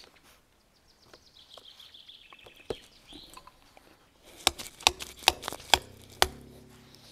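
Hammer blows on a metal stake: a single knock about two and a half seconds in, then a quick run of six strikes, some ringing briefly after the hit.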